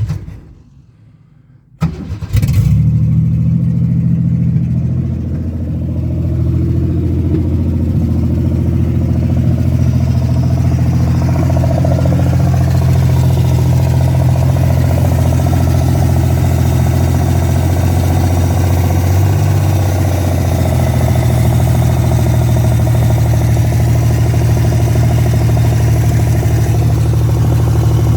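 Car engine catching about two seconds in, then idling steadily through cut-off extractors (open headers).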